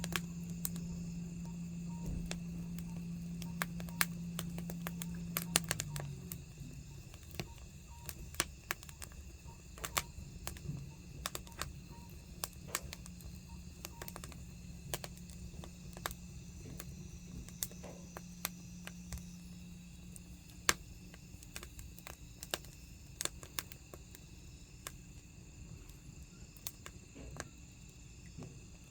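Burning firewood crackling, with irregular sharp snaps and pops. Under it is a low steady hum that fades out about six seconds in.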